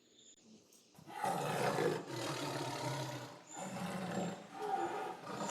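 A big cat's roar, lion or tiger style, starting about a second in and running in two long stretches.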